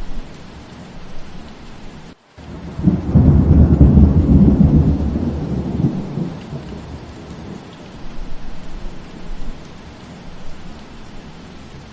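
Steady rain with a rolling thunder rumble that swells about three seconds in and fades over the next few seconds. The rain cuts out completely for a moment just before the thunder.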